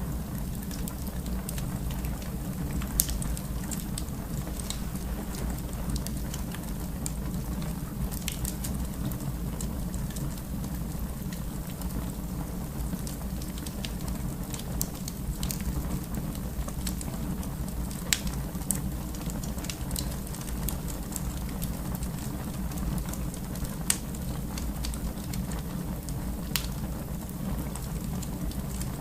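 Wood fire burning in a fireplace: a steady low rumble with sharp crackles and pops scattered every few seconds.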